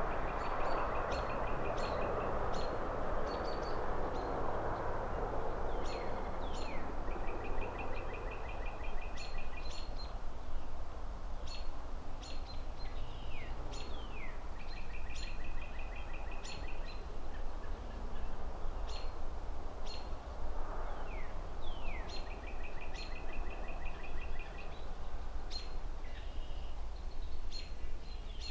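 Small birds chirping again and again, in quick rattling series and short falling notes, over a steady low traffic hum. A passing car's swish fades out over the first few seconds.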